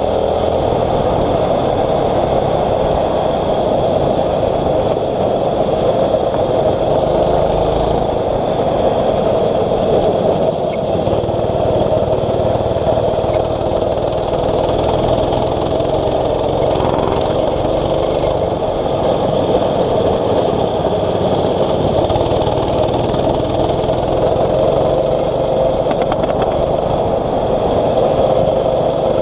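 A 6.5 hp single-cylinder four-stroke racing kart engine running hard at racing speed, its note rising and falling in pitch.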